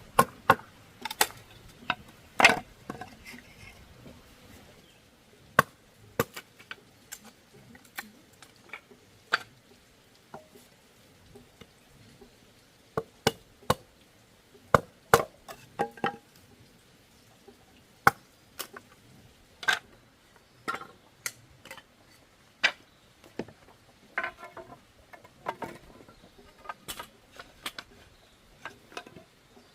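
Bamboo being chopped by hand: sharp, irregular strikes, sometimes single and sometimes in quick clusters, with short pauses between them.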